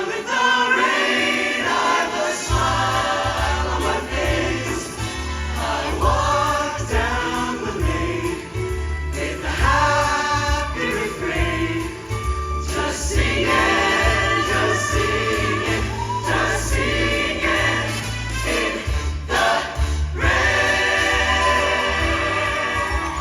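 A group of voices singing with instrumental accompaniment; a low bass line comes in about two seconds in.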